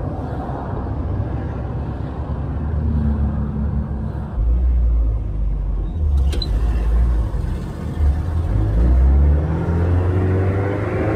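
Renault Sport Spider's 2.0-litre four-cylinder engine running under way, with heavy wind and road rumble through the open cockpit. Over the last few seconds the engine note rises as the car accelerates.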